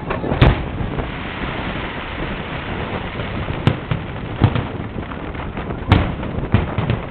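Fireworks going off: a steady crackle with about five sharp booms, the loudest about six seconds in.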